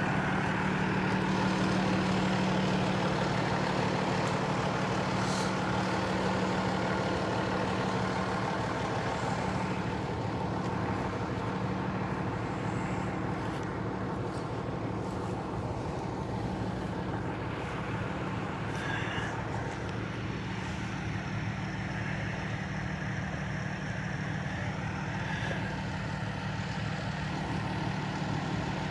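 A large vehicle engine idling steadily, a continuous low hum with a little traffic noise around it.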